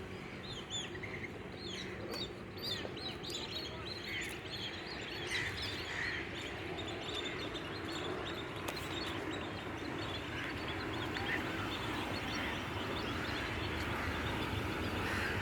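A flock of birds calling, many short chirps overlapping one another, over a steady low rumble.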